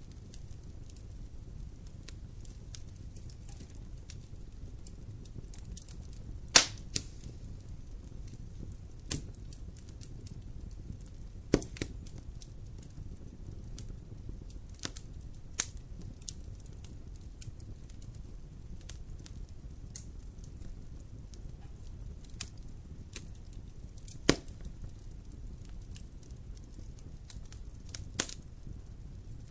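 Fire burning in a fireplace: a steady low rumble of flames broken by scattered sharp pops and crackles, the loudest a few seconds in.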